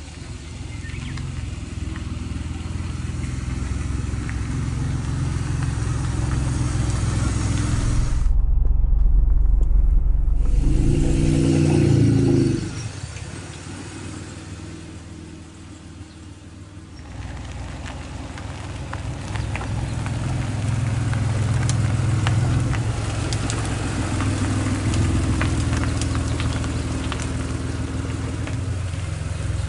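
Honda NSX's V6 engine and titanium aftermarket exhaust running while the car is driven. The engine note builds, falls away about twelve seconds in, then picks up again.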